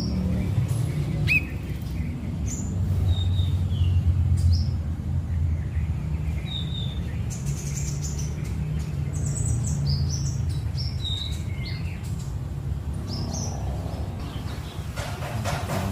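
Scattered short chirps and brief whistled notes from a songbird, most likely the kapas tembak, over a steady low hum.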